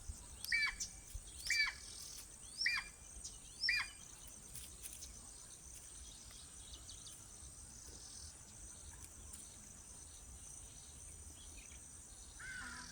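Crested hawk-eagle calling: four high, downward-sliding notes about a second apart in the first few seconds, over a steady high insect buzz.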